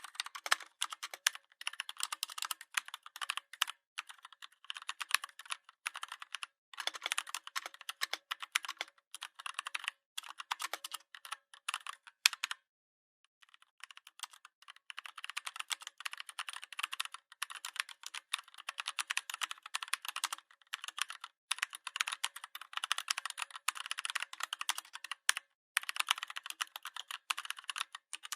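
Steady typing on a computer keyboard: rapid runs of key clicks, with a pause of about a second and a half near the middle.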